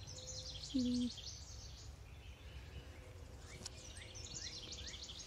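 Songbirds chirping in quick runs of high notes near the start and again through the second half, over steady low background noise. A brief low voice sound about a second in.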